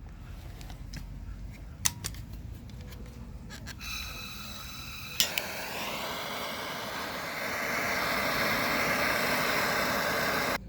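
Light metal clicks and taps, then a sharp click about five seconds in and a propane torch hissing steadily as it heats the muffler pipe for brazing with aluminium rod, growing louder about two seconds later and cutting off suddenly.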